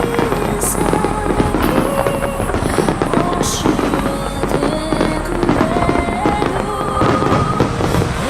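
Fireworks bursting and crackling in rapid succession over music with a clear melody.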